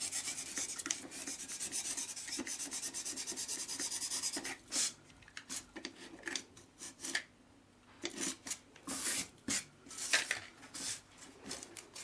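Utility knife blade sawing through a styrofoam slab, a scratchy rubbing scrape. Quick continuous back-and-forth strokes for about four seconds, then slower separate strokes.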